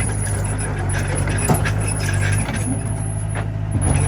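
A Komatsu mini bulldozer's engine running steadily, with a few sharp metallic knocks.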